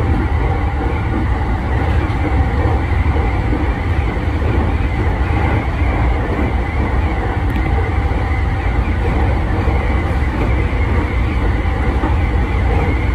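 JR 209 series 500 electric multiple unit running at speed on elevated track, heard from inside its front cab: a steady, even rumble of wheels and running gear with a faint steady hum.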